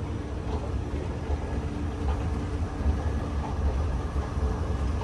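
Steady low rumble of a vehicle in motion, with a faint hum over it.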